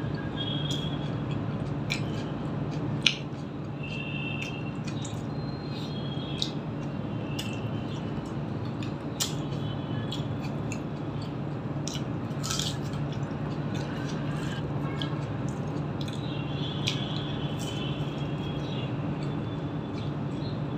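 Close-up wet squishing and clicking mouth sounds of someone chewing a mouthful of rice and curry eaten by hand, with a sharp click about three seconds in, over a steady low hum.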